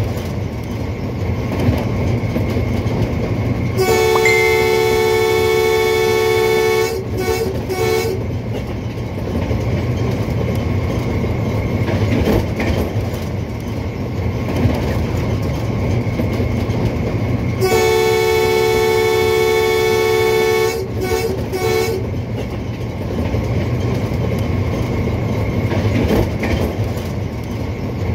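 Diesel locomotive running at speed with a steady low rumble and wheels clattering on the rails, sounding its horn twice: a long blast about four seconds in followed by a few short toots, and the same again, a long blast then short toots, about eighteen seconds in.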